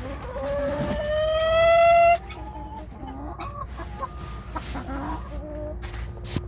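A rooster crows once: a long call that rises slowly in pitch and cuts off about two seconds in. Softer chicken clucks follow, with a sharp click near the end.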